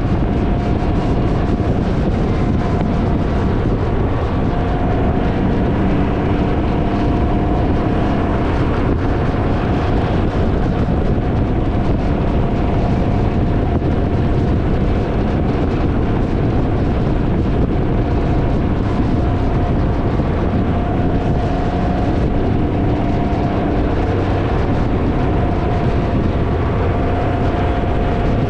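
Can-Am Ryker three-wheeled motorcycle under way, its engine a steady drone with heavy wind noise rumbling across the microphone.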